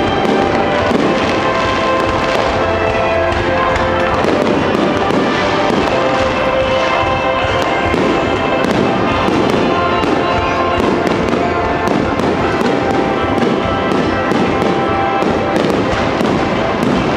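Star mine fireworks barrage: shells bursting in rapid, overlapping bangs with continuous crackle, dense and unbroken throughout.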